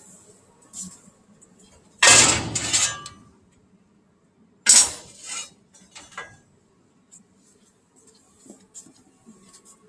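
Sheet metal clanking: two loud metallic clatters with a short ringing tail, about two seconds in and again near five seconds, among lighter clicks and taps.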